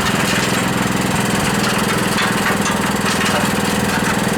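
Small engine on a concrete mixer running steadily, with a fast, even beat of firing pulses.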